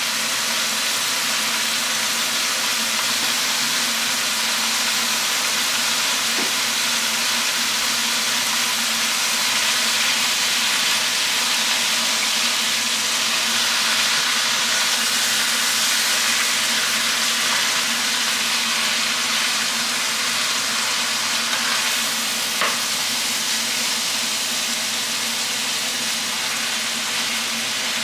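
Sliced beef and chopped onion sizzling steadily in a hot frying pan, stirred with a wooden spatula.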